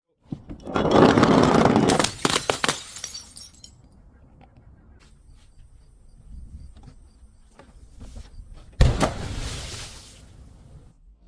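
Glass bottles being crushed and shattering: a loud crunching break lasting about two and a half seconds starts half a second in, then a second sudden break about nine seconds in that trails off.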